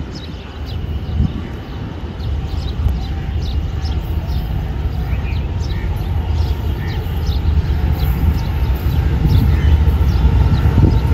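Passenger train's coaches rolling past on the track: a steady low rumble that grows louder toward the end, with faint short high ticks scattered over it.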